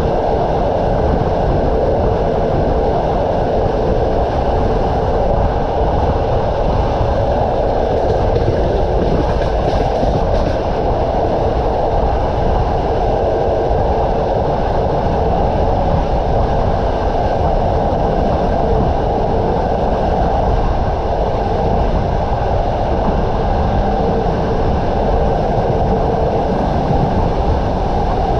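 Passenger train running along the line: the steady rumble and noise of the wheels on the rails, with a constant hum underneath and no breaks.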